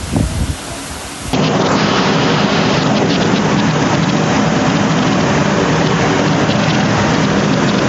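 Heavy rain from a thunderstorm: low rumbling surges for about the first second, then a loud, steady downpour that starts abruptly.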